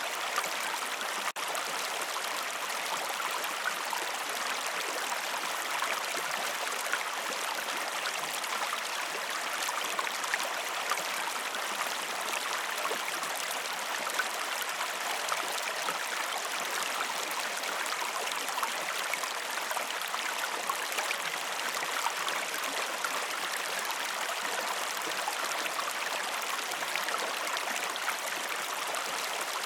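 River water flowing in a steady rush and babble, with a momentary dropout about a second in.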